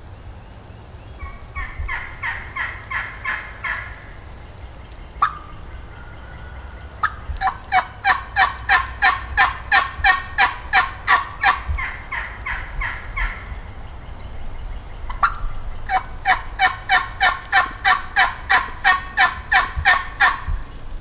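Wild turkey yelping: three long runs of evenly spaced, loud yelps at about four a second, the longest lasting some six seconds. Two sharp clicks and a brief high chirp fall between the runs.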